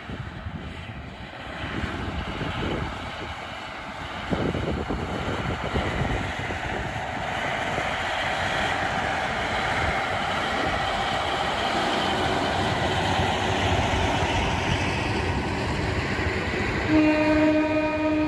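KiHa 183 diesel railcar set passing close by: engines and wheels on the rails grow louder from about four seconds in and stay loud as the cars go past. Near the end a loud steady pitched note sounds for about a second and a half, with a brief break.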